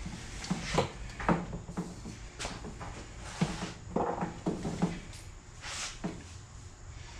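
Irregular clinks and knocks of hand tools being worked on a motorcycle-type cylinder head while removing a broken head stud, a dozen or so short hits spread over a few seconds, over a low steady hum.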